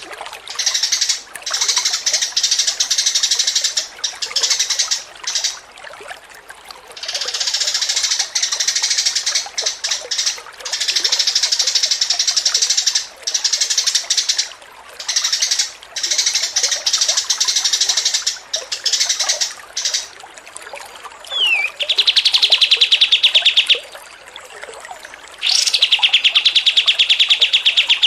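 Songbird song: bursts of rapid, high-pitched chattering, each a second or two long, with short gaps between. About two-thirds through, a brief falling whistle leads into a fast, even trill on one pitch lasting about two seconds. The trill comes again near the end, louder than the chatter.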